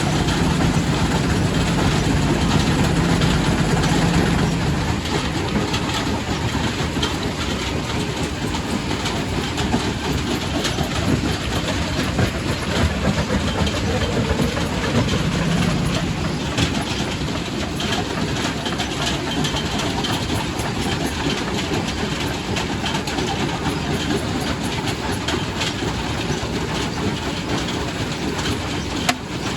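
Quarry primary rock crusher running: a continuous dense clatter of stone being broken, with a low mechanical hum that is stronger for the first few seconds and briefly again about halfway through.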